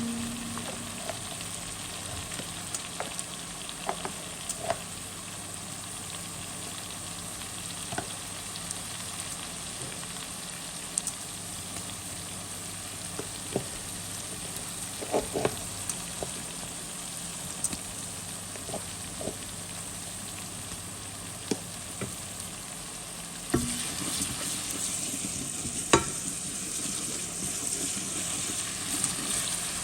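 Food sizzling in a pot, with scattered light clicks of a utensil against the pot. The sizzle grows louder about 23 seconds in, and there is a sharp knock a few seconds later.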